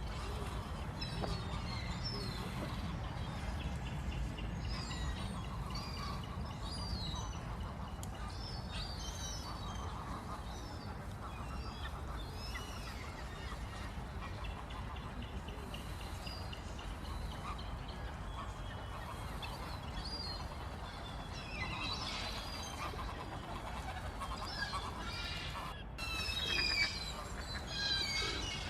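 Pond birds calling: a steady run of short, high calls from several birds, with honks and quacks among them, getting louder and busier near the end, over a low steady rumble.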